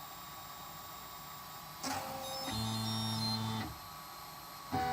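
3D printer's stepper motors whining in steady, musical-sounding tones as the machine moves during its print-start sequence. The tones come in about two seconds in, stop after a little over a second, and start again at a different pitch near the end.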